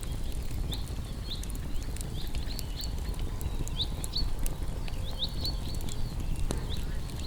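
Campfire of burning wood with a steady low rumble and scattered sharp crackles, over which short high chirps repeat irregularly.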